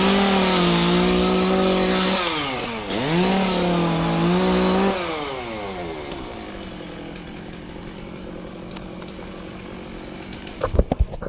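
Two-stroke chainsaw revved to full throttle twice, each burst about two seconds long, with its pitch sagging slightly partway through each. It then drops back to a steady idle. A few sharp knocks come near the end.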